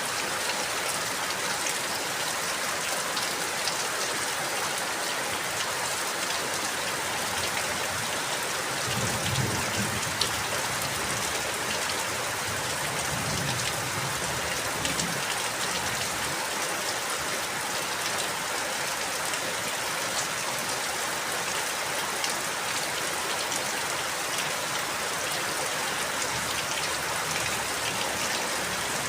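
Steady rain falling, with individual drops ticking on a surface. A soft low rumble comes and goes a few times in the middle.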